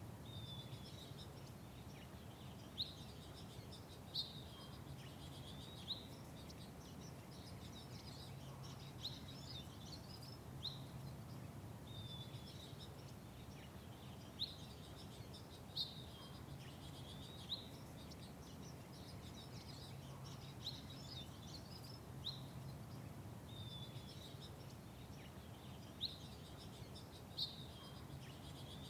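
Small songbirds chirping in short, sharp, high notes, one every second or two, over a steady low background hum.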